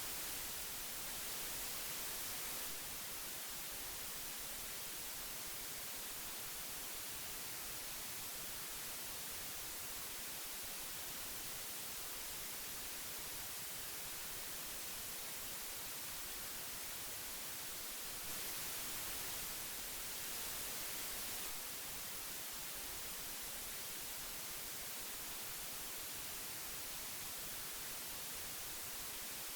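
Old audio tape hiss: a steady, even hiss strongest in the high end, with little below. It swells slightly louder and brighter for a few seconds at the start and again about two-thirds of the way through.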